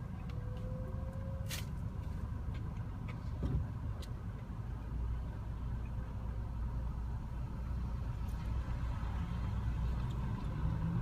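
Car engine running steadily as a low rumble heard inside the cabin, with a few faint clicks.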